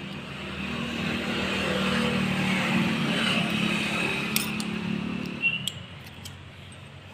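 A motor vehicle's engine hum passing by, swelling about a second in and fading away near the end, with a few sharp clicks over it.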